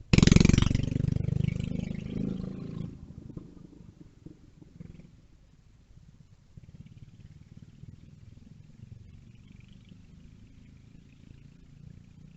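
A mini bike's small engine puttering past close by. It is loud at first and fades away over about three seconds, then keeps running faintly as a low rumble.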